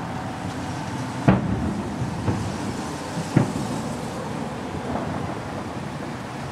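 Distant aerial firework shells bursting: a series of booms, the two loudest about a second and about three and a half seconds in, with smaller ones between.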